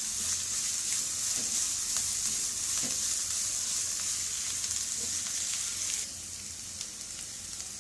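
Onion, ginger and garlic frying in oil in a kadai: a steady sizzle with a few faint taps of stirring. The sizzle turns quieter about six seconds in.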